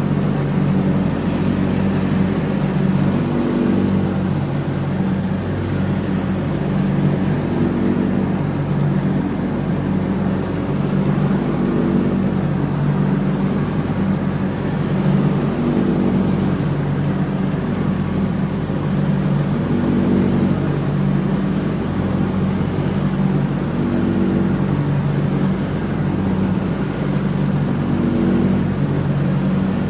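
John Deere X304 lawn tractor running steadily while mowing, its engine pitch dipping and rising slightly every few seconds.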